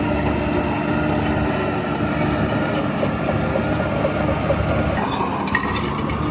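Bulldozer's diesel engine running steadily under a dense low rumble, with short high metallic squeaks near the end.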